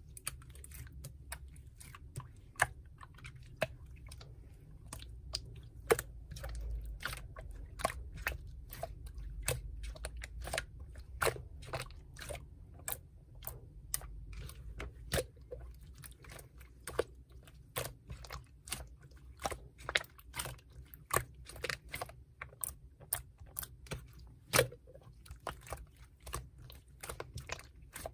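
Slime being squeezed and worked by hand, giving a dense, irregular run of small sharp clicks and pops, several a second.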